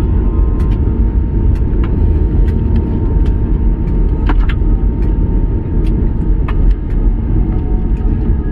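Steady low rumble inside an airliner's cabin around landing, with scattered faint clicks and rattles.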